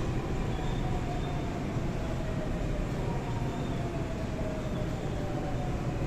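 A Seoul Line 4 VVVF 4000-series Daewoo–Alstom GTO electric train running: a steady rumble of wheels and car body, with a faint traction whine that slowly falls in pitch.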